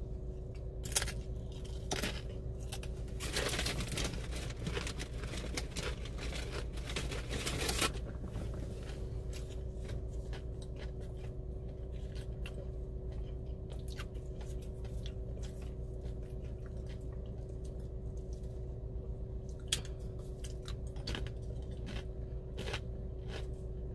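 A person chewing a tortilla chip loaded with creamy bean dip. The crunching is densest for a few seconds near the start, then thins to fainter, scattered crunches.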